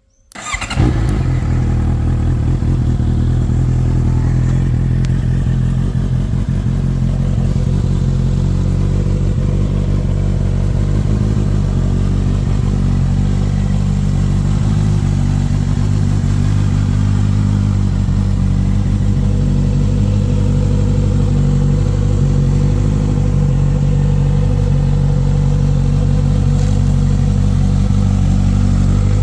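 Honda CBR650F's inline-four engine starting about half a second in, then idling steadily through its exhaust.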